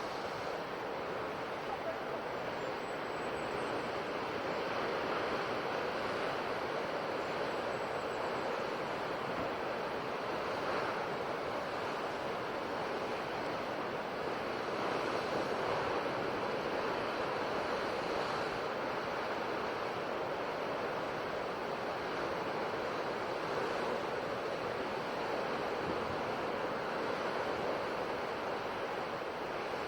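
Ocean waves breaking and washing on a shore in a steady, continuous rush of surf, swelling and easing slightly in slow cycles.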